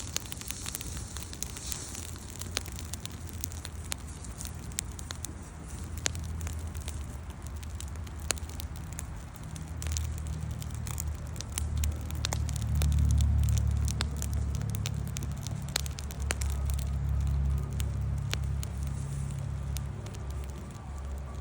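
Wood campfire crackling, with irregular sharp pops and snaps over a low rumble that grows louder from about ten seconds in.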